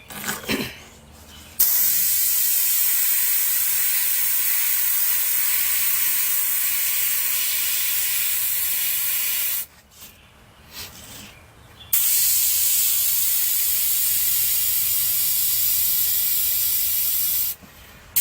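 Dual-action airbrush spraying thinned acrylic paint, a steady high hiss of air in two long bursts, each started and stopped sharply at the trigger, with a short pause between them.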